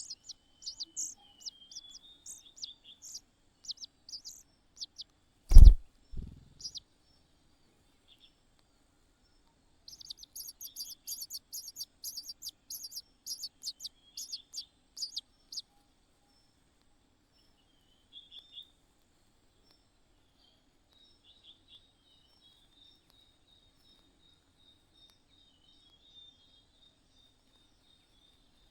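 Small birds chirping in quick, high-pitched series, a first run at the start and a second busier run about ten seconds in, with only faint chirps after that. A single loud thump about five and a half seconds in is the loudest sound.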